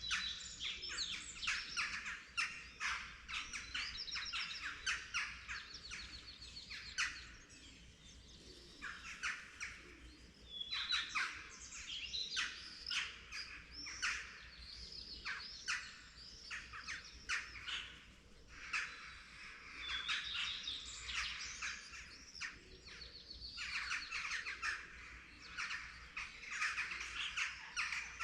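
Dawn chorus of several songbirds singing at once: dense, overlapping chirps, trills and short high calls, with a few brief lulls.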